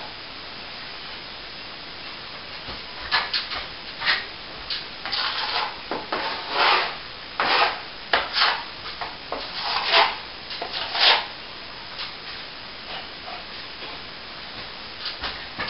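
A hand tool rubbing and scraping across a plaster surface in a run of irregular strokes, heaviest in the middle of the stretch, with a few fainter strokes near the end.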